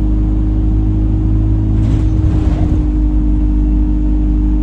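Alexander Dennis Enviro 200 bus running with a steady, horn-like drone: one held tone with several overtones over engine and road rumble. The uploader suspects a gearbox fault, since the noise is much louder toward the front of the bus.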